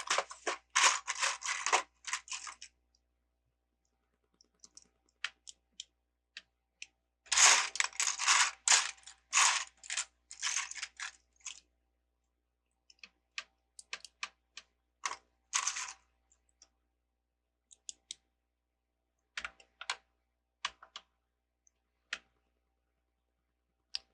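Small plastic LEGO pieces clicking and rattling as they are handled. There are dense bursts near the start and again about seven to twelve seconds in, then scattered single clicks with silent gaps.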